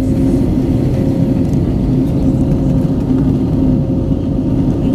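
Airbus A320 heard from inside the passenger cabin: a steady engine and airflow drone with a constant hum, unchanging throughout.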